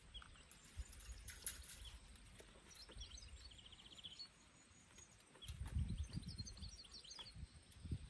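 Faint birds chirping, with a short rapid trill a few seconds in, over quiet outdoor background. A low rumble comes in past the middle.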